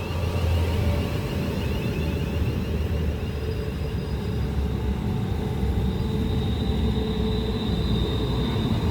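Class 350 Desiro electric multiple unit drawing into the platform: a steady low rumble with a faint high electric whine from its traction equipment.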